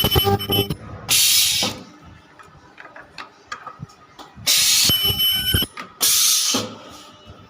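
Ultrasonic welding machine cycling: short, loud hissing bursts about half a second long, one at the start, one about a second in and two more in the second half, some with a thin high-pitched tone, with mechanical clicks between them.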